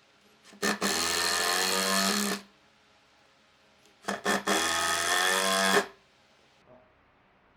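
Electric drill run in two bursts of about two seconds each, starting with a few short clicks and stopping abruptly.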